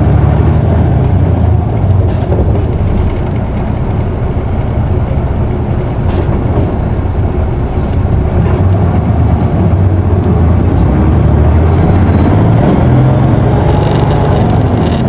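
Onboard sound of a city bus's diesel engine under way, with a steady low hum and a few clicks from the cabin. The engine revs rise in the second half as the bus pulls away.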